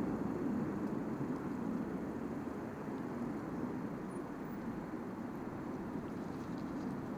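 Distant jet aircraft, a steady low rumble that eases slightly at first and then holds.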